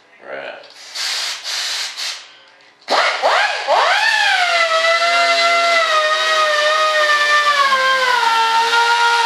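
Three short rasping strokes, then a small power tool's motor spins up with a rising whine about three seconds in and keeps running at a steady whine.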